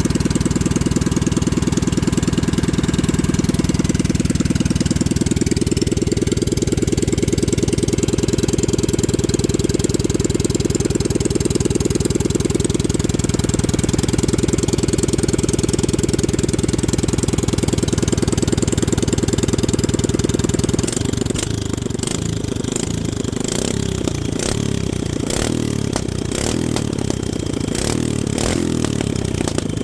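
Predator 212cc Hemi single-cylinder engine running through a short straight pipe, steady at first. About two-thirds of the way in it turns uneven and choppy, with sharp pops coming from the exhaust.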